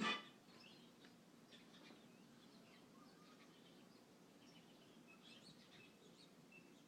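Faint, scattered chirps from small birds at a feeder, with a short cluster of calls about five seconds in.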